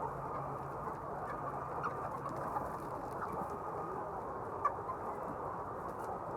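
A large flock of chickens in a poultry shed, many birds clucking and cheeping at once in a steady, dense chorus, with a few sharper individual calls standing out.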